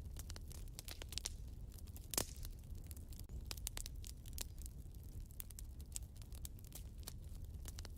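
Wood fire burning in a fireplace: a low steady rumble with irregular crackles and pops, one louder pop about two seconds in.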